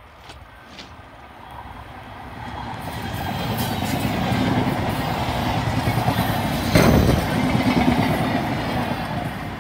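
A fast train passing close by, building up over the first few seconds and starting to fade near the end. A single sharp bang stands out about seven seconds in.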